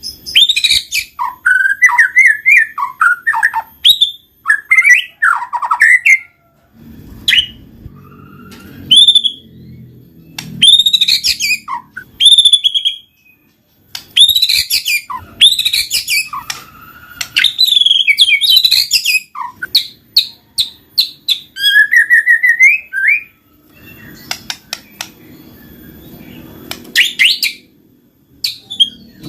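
White-rumped shama (murai batu) singing a loud, varied song: quick runs of whistles sliding up and down, fast trills and sharp chip notes, in phrases with short pauses between them. A faint low rumble sits underneath in two stretches, about a third of the way in and again near the end.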